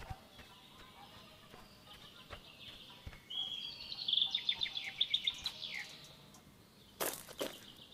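Songbirds singing, with a rapid trilled run of repeated high notes through the middle and a quick falling chirp after it. A brief burst of noise comes near the end.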